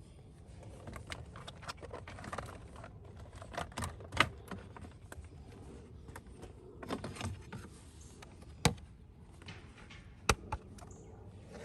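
Hand work on car parts: scattered clicks and light rattles of tools and plastic or metal pieces being handled, with three sharp knocks.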